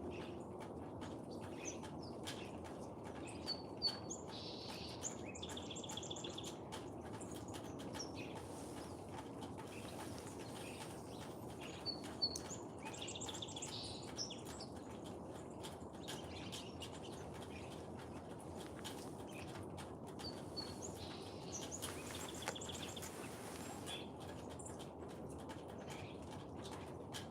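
A small songbird singing a short, high-pitched phrase three times, roughly every nine seconds, over a steady low background rumble.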